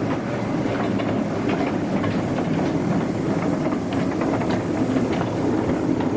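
Narrow-gauge railway train running along the track: a steady rumble with irregular clicks and knocks of the wheels over the rail joints.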